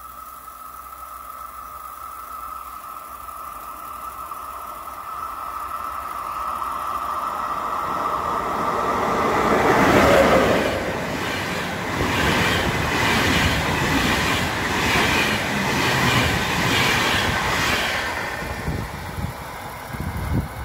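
A passenger train hauled by an electric locomotive passes at speed. A steady high ringing tone and a rising rush build as it approaches, and it is loudest as the locomotive goes by about halfway through. Then the coaches' wheels clatter over the rail joints in a regular rhythm, about once a second, before the sound fades.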